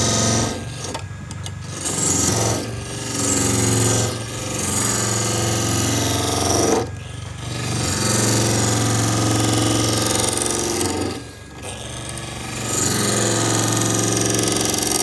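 Handheld electric power tool abrading a wood surface, its motor running steadily with a rasping hiss that swells in passes of two to four seconds and eases briefly between them.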